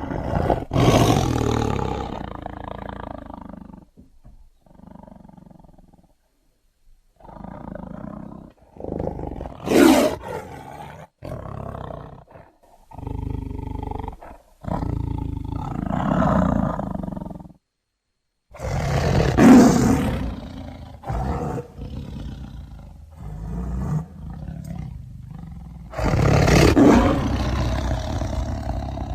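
Siberian tiger roaring and growling in a string of separate calls, with loud roars about a second in, near ten seconds, near twenty seconds and near the end, and quieter growls between them.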